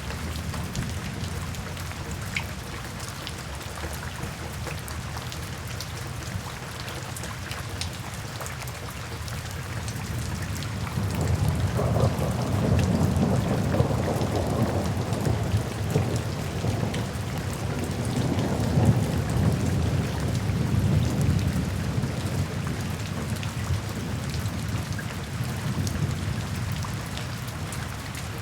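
Steady rain falling, with a long low rumble of thunder that swells up about a third of the way in, rolls on for over ten seconds and dies away.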